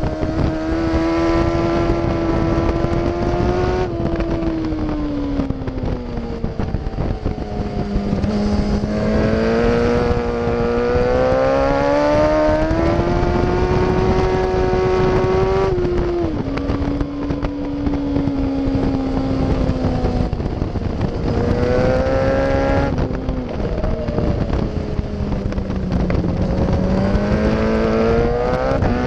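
Yamaha FZ1's inline-four engine at track speed, its pitch rising and falling slowly through the corners with a few sudden steps at gear changes, under heavy wind buffeting on the microphone.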